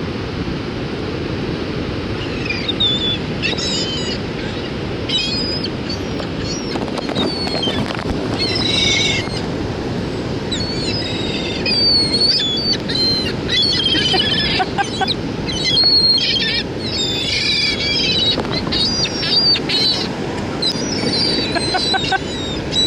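A flock of seagulls calling over and over in short, high squawks, many overlapping and busiest in the middle, as they chase bread thrown into the air. A steady rush of surf and wind runs underneath.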